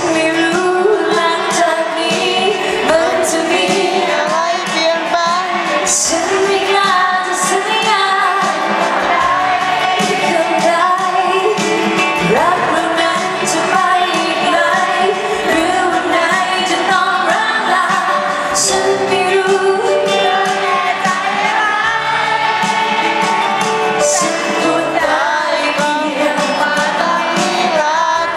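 A woman singing a Thai pop song live with band accompaniment.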